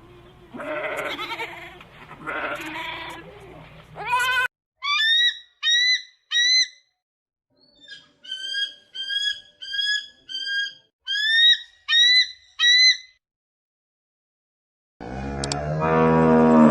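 Farm animal calls one after another: two bleats early on, then a long run of short, high-pitched squeaky calls in groups, and near the end a cow starting a loud low moo.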